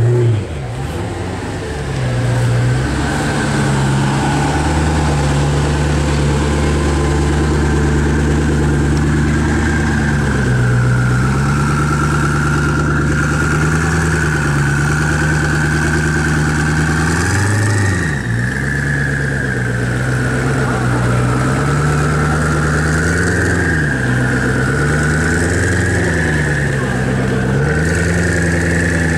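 Koenigsegg Agera's twin-turbo V8 idling steadily, its pitch dipping briefly every few seconds, with a wavering high whine over it and a short louder burst at first.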